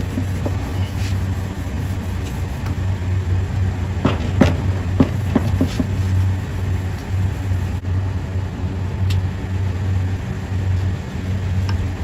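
A steady low machinery drone with a slightly pulsing level, with a few sharp clicks from parts being handled about four to six seconds in.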